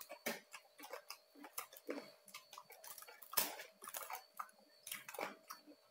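Close-up chewing of crispy roast pork skin: irregular sharp crunches and wet mouth clicks, several a second, with a louder crunch about three and a half seconds in.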